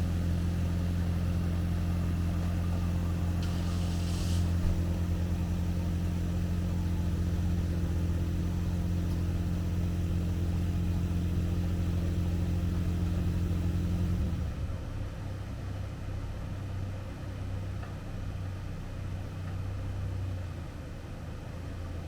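A machine running with a steady low hum that cuts off suddenly about fourteen seconds in, leaving a quieter background. A brief hiss sounds about three and a half seconds in.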